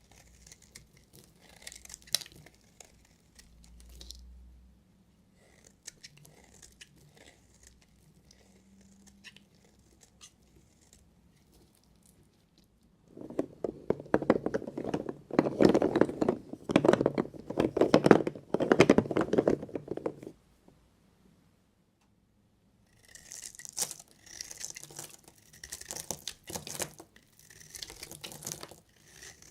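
A knife cutting through bars of soap with a crackly, crunchy sound. A few faint clicks and scrapes come first, then a loud run of dense crunching through the middle, a brief pause, and lighter, crisper crackling near the end.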